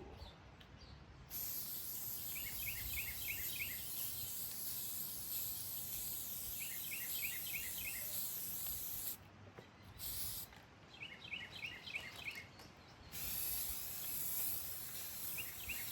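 Aerosol spray can of rust-converting primer spraying in passes: a long hiss lasting about eight seconds, a short burst, then another hiss near the end. A bird chirps in short repeated phrases in the background.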